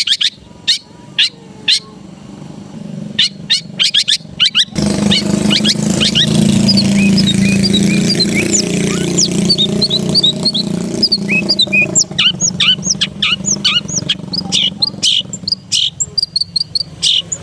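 Long-tailed shrike (cendet) singing: quick series of sharp, harsh notes, and in the middle a stretch of varied short whistled chirps typical of its mimicked song. A loud low rumble runs under the song from about five to fifteen seconds in.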